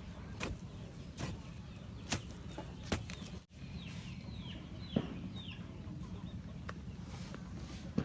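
Chickens calling in short, falling chirps, with several sharp knocks in between, the loudest about five seconds in, over a steady low rumble.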